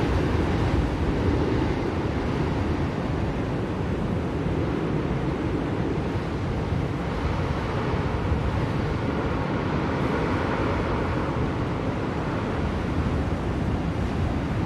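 Blizzard wind blowing steadily, a dense rushing noise heavy in the low end that swells a little about halfway through and eases again.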